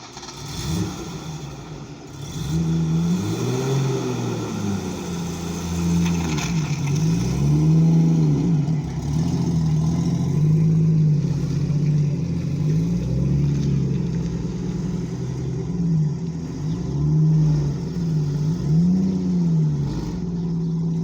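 Car engine idling and being revved over and over, each blip rising and falling in pitch, a second or two apart.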